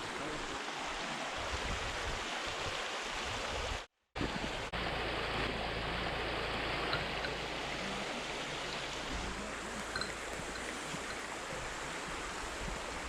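Steady rushing noise that cuts out for a split second about four seconds in.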